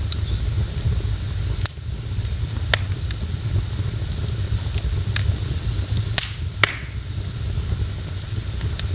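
Wood fire in a fireplace crackling: about six sharp pops at uneven intervals, the two strongest close together a little past the middle, over a steady low rumble.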